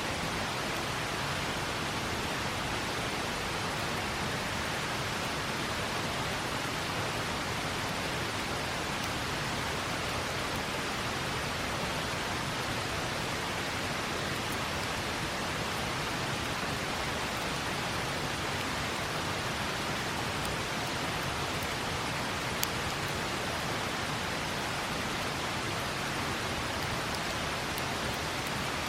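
River flowing: a steady rush of water. A few faint campfire crackles sound over it, one sharper about 23 seconds in.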